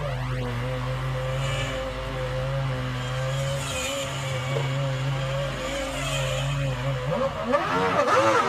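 Formula One cars' V10 engines running at high revs, their pitch rising and falling as they accelerate, change gear and pass. From about seven seconds in, several engine notes glide up and down together as more cars go by.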